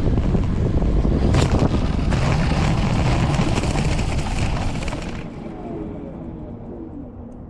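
Strong wind buffeting the microphone of a GoPro mounted on a fixed-wing RC plane: a loud, rumbling rush that drops off sharply about five seconds in and then fades.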